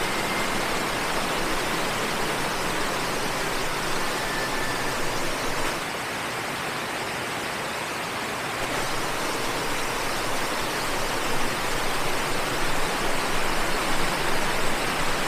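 Waterfall rushing: a steady, dense hiss of falling water, dipping slightly in the middle and swelling a little near the end.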